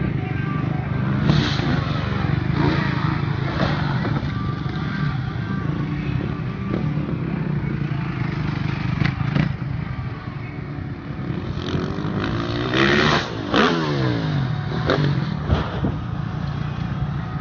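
Dirt bike engines revving at a motocross track, their pitch rising and falling as the bikes go round. About three quarters of the way through, one bike revs hard close by and its pitch drops away as it passes.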